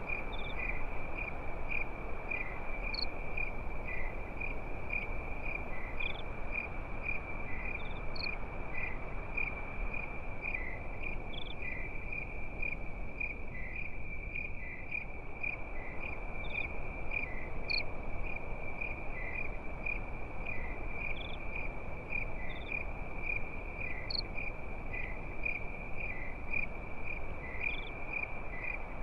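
Crickets chirping in a steady, pulsing high trill, joined by short, higher single chirps every few seconds, over a steady low hiss.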